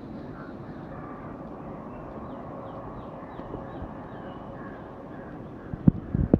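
Steady rumble of a distant jet airliner's engines with a faint held whine, a series of small high chirps in the middle, and a few sharp thumps near the end.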